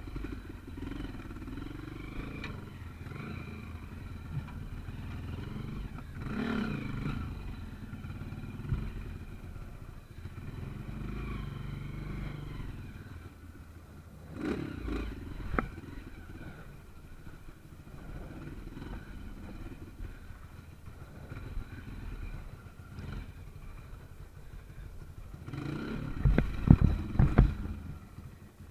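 Small trail motorcycle engine running over rough ground, with occasional clattering knocks. Near the end come a louder run of revs and knocks.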